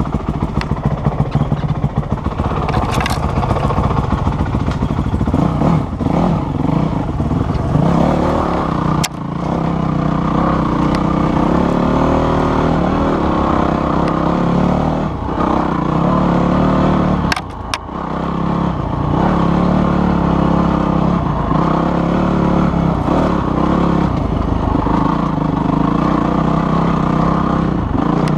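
Off-road vehicle engine running on a dirt trail, the throttle rising and falling, with a few short let-offs and some clatter from the rough ground.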